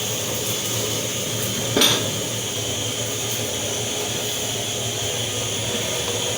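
A single metallic clank of kitchenware, a pot or utensil knocked, about two seconds in, over a steady hiss.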